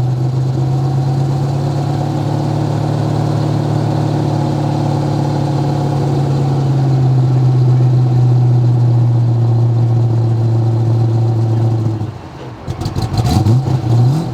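Ford Boss 429 V8 engine held running at a steady raised speed for about twelve seconds, then let drop and blipped in a few quick revs near the end.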